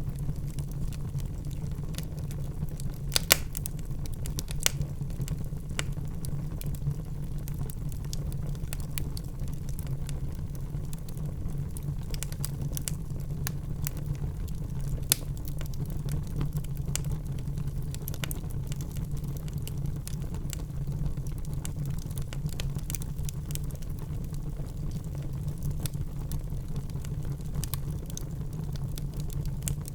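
Wood fire burning in a fireplace: a steady low rumble of flames under continual small crackles, with a few louder pops of the logs about three, four and fifteen seconds in.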